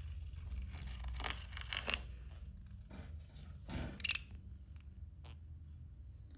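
Budgies moving about in their cage: a run of short scratches, scrapes and clicks, the loudest cluster about four seconds in, over a low steady hum.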